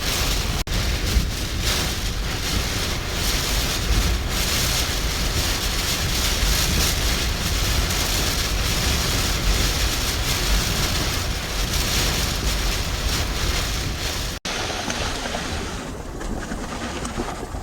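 Hurricane-force wind blasting the microphone in gusts, a heavy rumbling roar with hiss over it, with surf surging against the seawall beneath. The gusts ease a little near the end.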